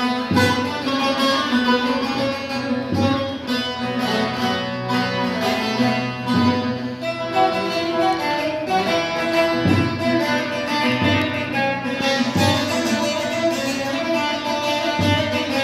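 Bağlama (saz) playing an instrumental folk melody over a steady low drone note, with low thumps every few seconds.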